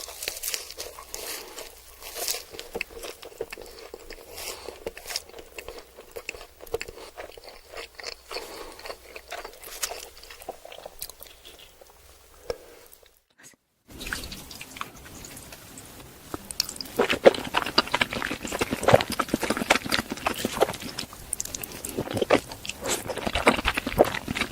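Close-miked chewing and crunching of food, many crisp crackles. It breaks off briefly about 13 seconds in, then resumes louder and denser.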